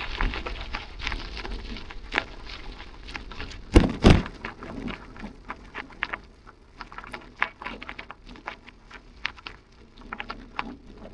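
Bicycle riding over a rough surface: irregular rattling clicks and taps, with two loud knocks in quick succession about four seconds in.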